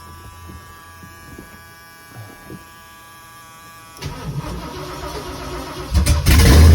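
1970 Ford Galaxie 500's big-block 429 V8 cold start: a faint steady whine with the key on, then the starter cranking about four seconds in, and the engine catching about six seconds in and running loud through open headers.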